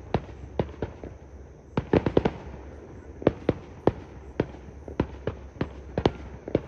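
Fireworks display going off: an irregular string of sharp bangs, about two or three a second, with a quick cluster of four or five close together about two seconds in.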